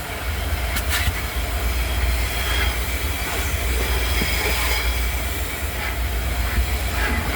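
Car wash vacuum running steadily as its hose nozzle sucks over a car's back seat, with a faint whine and a couple of short clicks.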